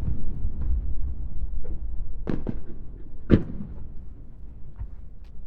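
Aerial fireworks shells bursting: a handful of sharp booms, two close together a little past two seconds in and the loudest about three seconds in, over a low rumble that slowly fades.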